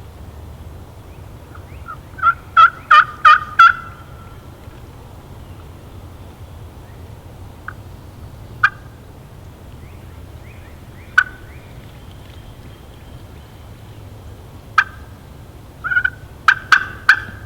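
Wild turkey calling: a run of five loud yelps, then single sharp clucks spaced a few seconds apart, and another quick run of yelps near the end.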